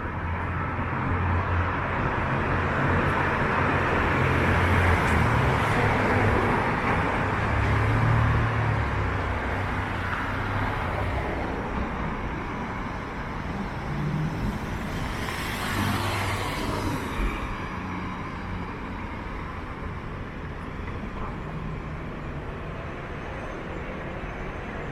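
Street traffic: a motor vehicle's engine hum swells and passes over the first ten seconds, then a short hiss about fifteen seconds in, with steady quieter street noise after.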